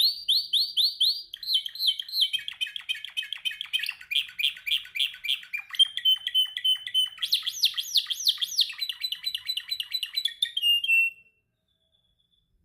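Domestic canary singing a fast song of rapid trills, each made of one note repeated many times, switching to a new trill every second or two. The song stops abruptly about a second before the end.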